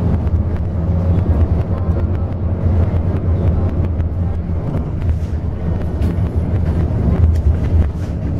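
Steady low rumble of a moving bus's engine and tyres heard from inside the cabin, with light rattles and clicks from the bus body throughout.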